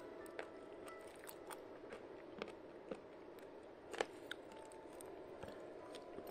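Someone chewing, with scattered soft crunches and clicks and one sharper click about four seconds in, over a steady low hum.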